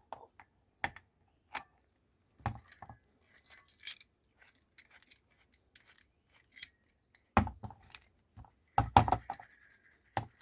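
Metal parts of a small cast iron table vice being handled and fitted back together: scattered clinks, clicks and light scraping, with louder knocks about seven and a half and nine seconds in.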